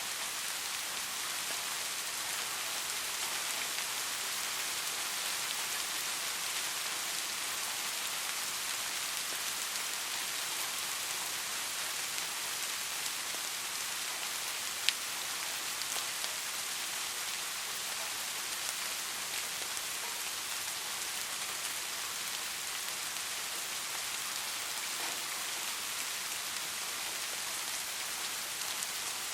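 Steady soft rain falling, an even hiss with scattered drop ticks and one sharper drip about halfway through.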